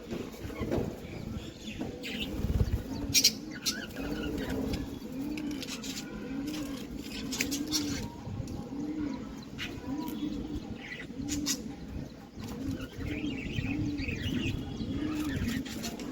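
Pigeon cooing: a steady run of low, arching coos about one a second from about four seconds in, with faint higher chirps and a short low thump about two and a half seconds in.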